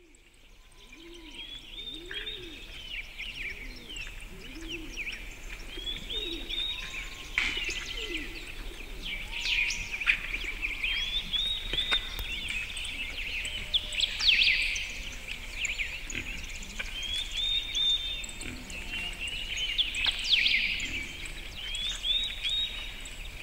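Birds singing in the dark: a dense mix of high chirping and whistled phrases repeating every couple of seconds, with some lower gliding calls underneath, fading in over the first couple of seconds.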